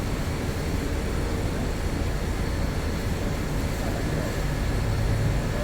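Motor vehicle running at a steady pace, a continuous low rumble of engine and road noise.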